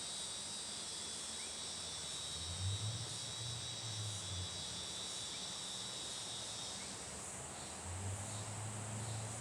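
Steady high-pitched chirring of insects, with one layer of the chorus dropping out about seven seconds in. A faint low hum comes and goes twice underneath.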